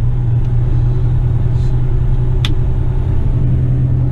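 Western Star tipper truck's diesel engine running under way, a steady low drone heard from inside the cab. One short sharp click sounds about halfway through.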